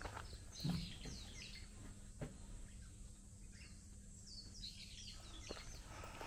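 Small birds chirping in quick series of short, downward-sliding notes in the forest, over a low steady background rumble. A soft thump comes about a second in, with a few faint knocks after it.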